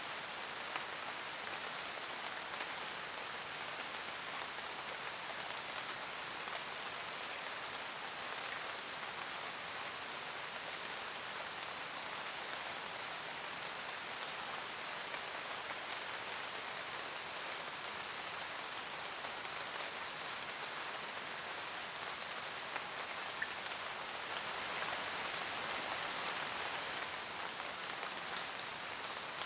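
Steady rain falling in a forest, a dense patter of raindrops on leaves, with a few individual drop ticks standing out. The rain grows a little heavier near the end.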